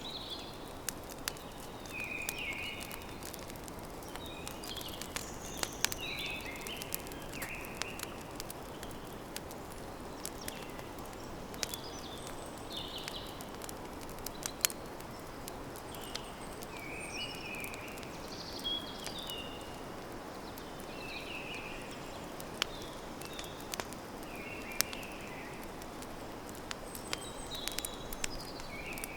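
Campfire crackling with frequent sharp pops over a steady hiss, while small birds chirp in short calls throughout.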